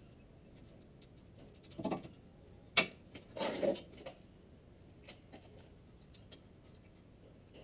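A few scattered clicks and knocks over a quiet background, the loudest a single sharp knock a little before the middle, followed by a brief rough scraping burst. No engine is running.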